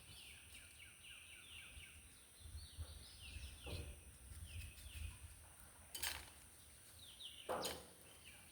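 Birds chirping faintly in repeated short falling notes, with two sharp knocks about six and seven and a half seconds in.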